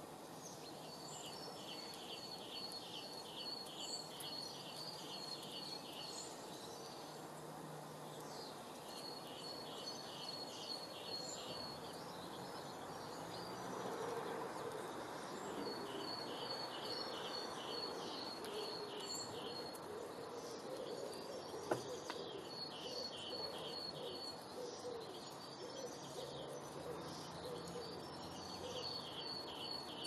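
A small songbird singing phrases of evenly paced high notes, about three a second. Each phrase lasts a few seconds, with pauses between, over steady outdoor background noise.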